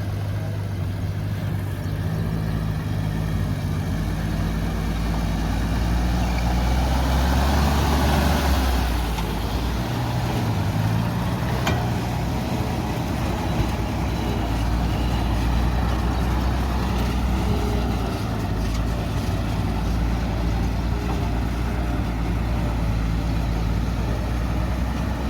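Heavy truck's diesel engine running at low revs throughout, getting louder and rising in pitch about six to nine seconds in as it pulls, then settling back. There is a single sharp click near twelve seconds.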